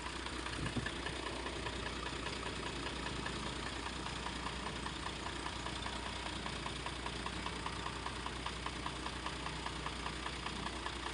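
Truck engine idling steadily, with an even, rapid ticking beat over a low hum.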